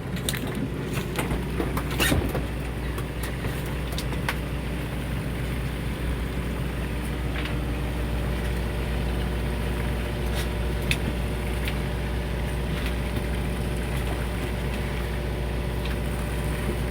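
Fishing boat's engine running steadily, a constant low hum, with a few faint clicks scattered through it.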